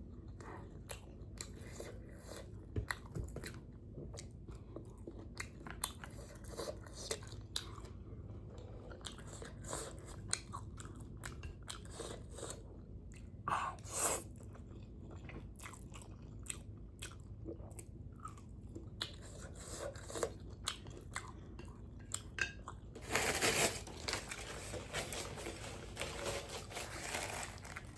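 Close-miked eating of spicy noodles: chewing with many small wet mouth clicks, and a louder noisy stretch about 23 seconds in.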